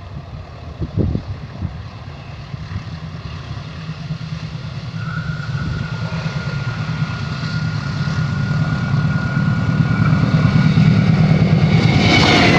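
Diesel engine of a CC203 locomotive running, growing steadily louder as the train approaches. Wheel and rail noise rise sharply near the end as it draws level.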